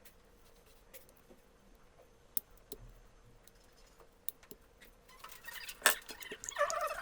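Scattered light clicks and taps of small hard objects being handled, then a stretch of rustling and scraping with one sharp, loud click about six seconds in.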